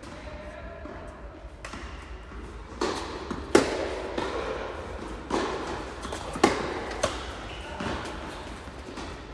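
Tennis rally: a ball struck by rackets and bouncing on the court, a run of sharp knocks about a second apart starting about three seconds in, the loudest two about three and a half and six and a half seconds in.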